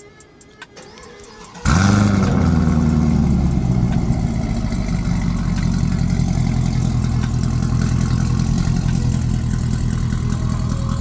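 Chevrolet Camaro RS engine, running through a catless stock ZL1 exhaust, warm-starting suddenly about two seconds in. It flares up in revs briefly, then settles into a steady idle.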